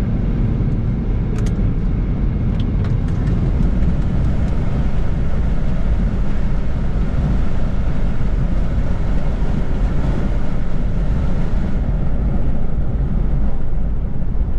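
Steady road and engine noise inside a moving car's cabin, with a few faint clicks in the first few seconds.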